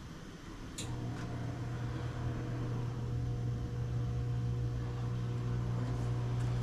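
Motorcycle wheel balancer switched on with a click about a second in, then its motor spinning the wheel with a steady hum: a check spin after wheel weights have been added.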